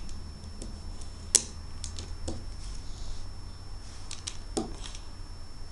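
Plastic Lego bricks clicking and clattering as pieces are handled and pressed together: a string of scattered sharp clicks, the loudest about one and a half seconds in.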